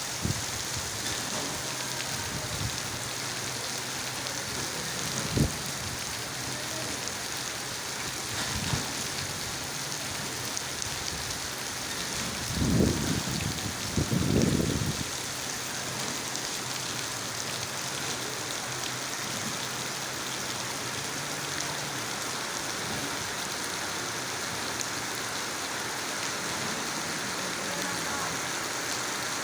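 Steady rain falling, an even hiss of many drops. A single short knock comes about five seconds in, and two brief low rumbles come about halfway through.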